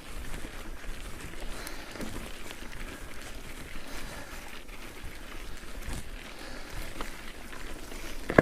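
Mountain bike climbing a gravel track: the tyres crunch steadily over loose stones, with a few sharp clicks.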